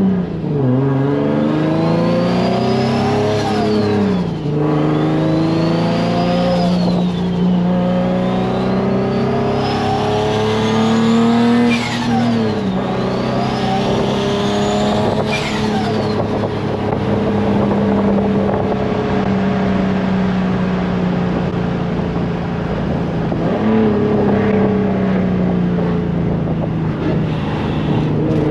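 Turbocharged Nissan 350Z's VQ35 V6 pulling through the gears, a high turbo whistle climbing with each pull and falling away when the throttle lifts, four times in the first half. After that it settles to a steadier cruise, with the engine note dipping once more near the end.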